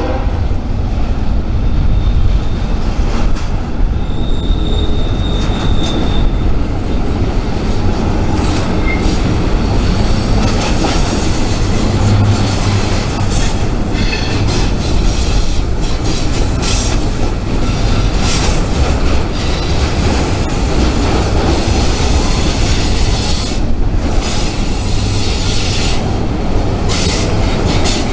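Freight train rolling past close by: a loud, steady rumble of wheels on rail with repeated clatter, and a thin high wheel squeal for about two seconds, starting about four seconds in.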